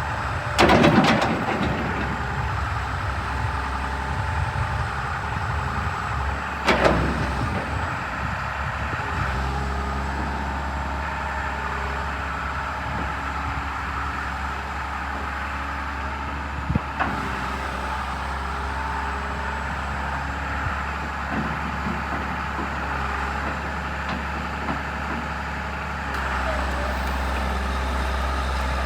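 John Deere 690D-LC tracked excavator's diesel engine running steadily, with three sharp knocks: about a second in, near seven seconds, and near seventeen seconds.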